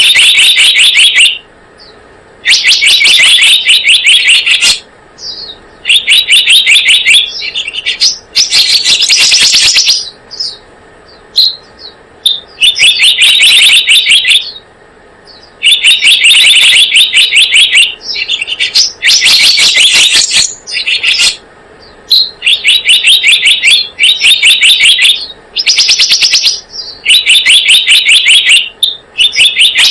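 Bird-lure recording of the bird known in Indonesian as selendang biru, its song played loud and on repeat: bursts of fast, high chirps, each about one to two seconds long, separated by short pauses.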